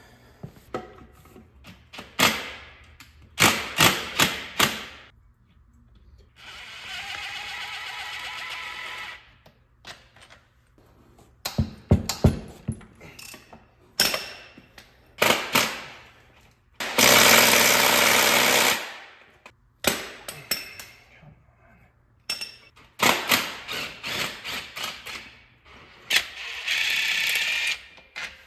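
Impact wrench run in three bursts of about two to three seconds, loosening the bolts that hold the transmission to the engine block. Between the bursts come sharp metal clicks and clanks of tools and bolts being handled.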